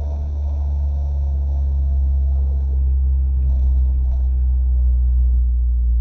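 Mazda MX-5 ND's engine and road noise, heard from inside the car's cabin as a steady low rumble that grows slightly louder.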